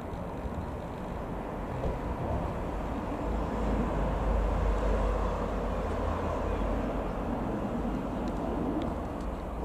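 Jet engine noise from a Boeing 737-800's CFM56 turbofans: a deep rumble with a broad roar above it that swells to its loudest about halfway through and then eases off, as the airliner passes.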